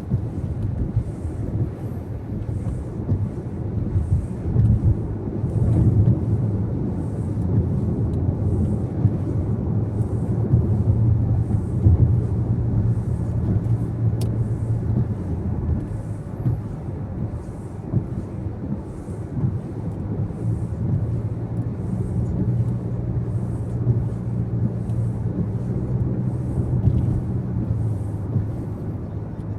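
Steady road and engine noise inside a moving car's cabin: a low rumble of tyres and engine with a hum that swells and eases slightly. A faint high tick repeats about once a second.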